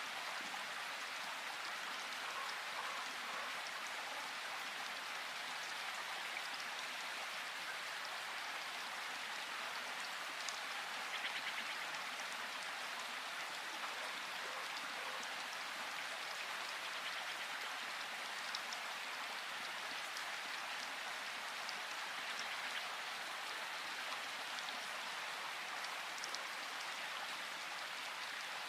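Steady rain falling in a forest: a dense, even patter with scattered sharper drips, and a brief louder spell of drops about eleven seconds in.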